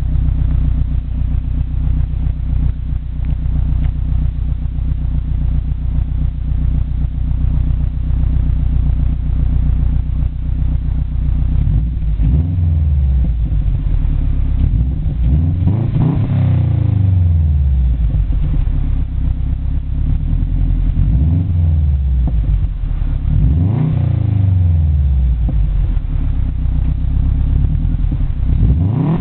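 2006 Subaru Legacy GT spec.B's turbocharged 2.5-litre flat-four running through a cheap custom exhaust, catless apart from a catted 3-inch Cobb downpipe. It idles steadily, then is revved about four times in the second half, each rev rising and falling back to idle.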